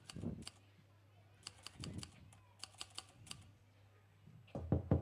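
Typing on a laptop keyboard: short runs of light key clicks, with a couple of dull thumps, over a low steady hum. Near the end a rapid series of louder knocks begins.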